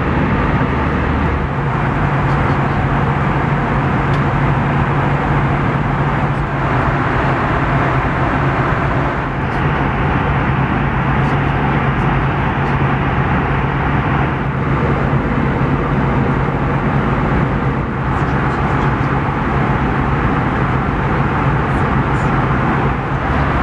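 Steady cabin noise inside an Airbus A320: the rumble and rush of the engines and airflow, with a low hum that steps up in pitch about a second and a half in.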